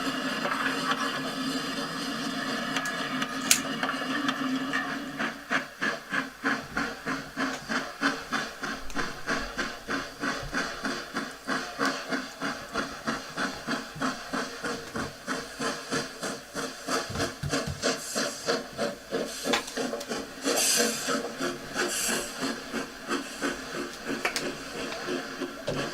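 A 00 gauge model train running on the layout: a steady electric motor whirr, which about five seconds in turns to an even, rhythmic clicking beat of about two to three a second as the wheels and gears turn.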